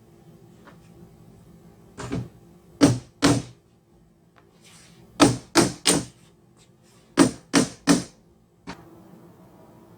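Sharp knocks in quick threes, three sets of them a couple of seconds apart, then one lighter knock near the end.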